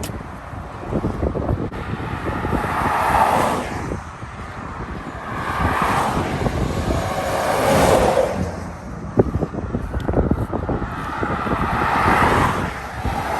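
Cars and trucks passing close by on a highway, one after another every few seconds, each a rising and fading tyre-and-engine rush, one with a clearly falling pitch as it goes past. Wind rumbles and buffets the microphone throughout.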